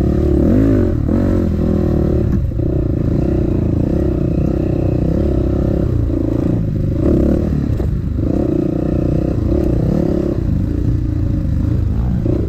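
Dirt bike engine running under load on a trail, rising and falling in pitch as the throttle is opened and closed, with brief dips where it backs off.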